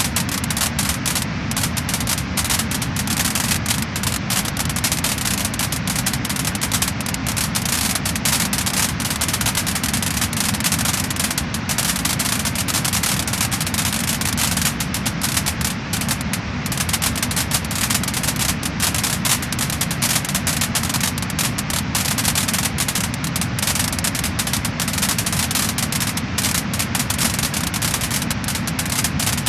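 Wood fire crackling and popping: a dense, continuous run of small crackles over a steady hiss.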